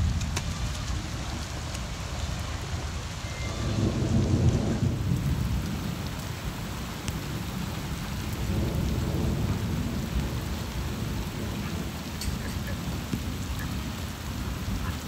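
Heavy tropical-storm rain falling steadily on standing floodwater and sodden ground, with low rumbles of thunder swelling about four seconds in and again around nine seconds.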